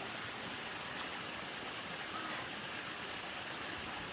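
Steady rush of running water from a nearby rainforest stream and waterfall.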